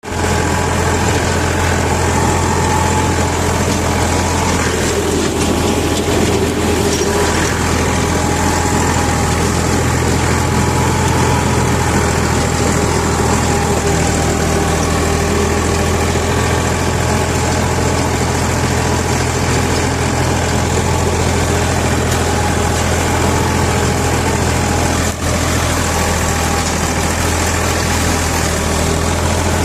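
Ford tractor engine running steadily under load, driving a rotavator, with a constant low engine hum.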